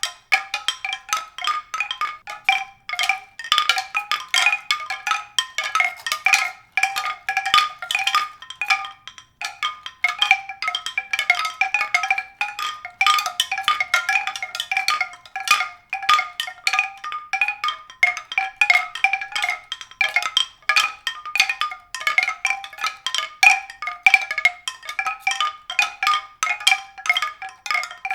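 Tuned percussion, marimba- or xylophone-like, struck in a quick, continuous stream of short ringing notes around a few repeated pitches.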